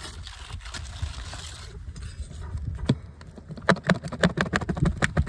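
Hand tools working a sealed, nailed asphalt shingle loose from chimney flashing: a hissing scrape, then a quick run of sharp clicks and taps near the end.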